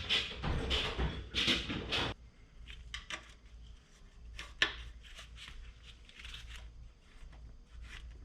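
Hand handling of parts and tools: about two seconds of rustling and scraping, then scattered light clicks and taps, with one sharp click about four and a half seconds in.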